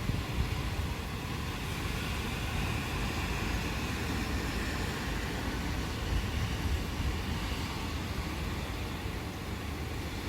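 Steady rain with a low, continuous rumble of distant thunder rolling under it.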